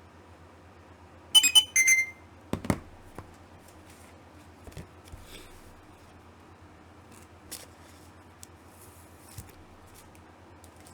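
Two short electronic beeps about a second and a half in, then a single knock and a few faint clicks over a steady low hum.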